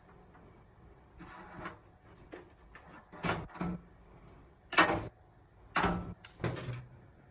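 A series of separate knocks and short scrapes, about seven in all, from hard objects being handled and set down during restoration work.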